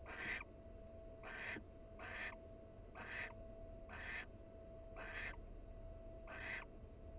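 Barn owl giving harsh, rasping hissing calls (the 'snoring' call), each about a third of a second long, repeated roughly once a second. A faint steady electrical hum runs underneath.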